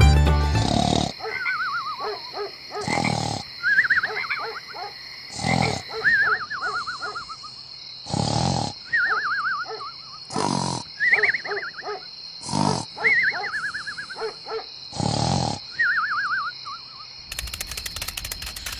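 Wild animal calls: short loud roar-like blasts about every two and a half seconds, each followed by a falling, warbling call.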